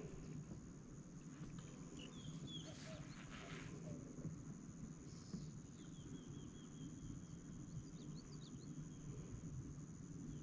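Small birds chirping faintly outdoors: a few short chirps about two to three seconds in, then a quick run of repeated chirps a little past the middle and a few more after it. Under them run a steady high-pitched whine and a low rumble.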